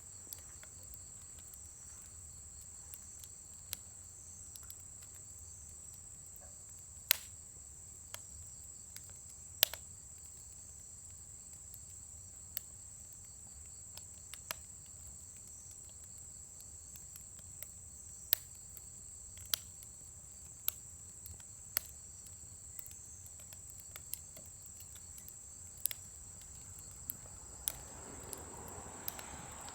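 A wood fire crackling in a fire pit, with sharp, irregular pops every second or few, over a steady high chirring of crickets.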